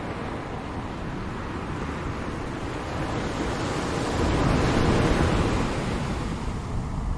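Ocean waves breaking on a shore: a steady wash of surf that builds to a louder breaking wave about four seconds in, then slowly recedes.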